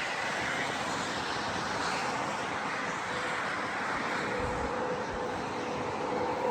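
Steady road traffic noise: an even hiss of vehicles and tyres on the road, with a low engine-like tone joining in during the last couple of seconds.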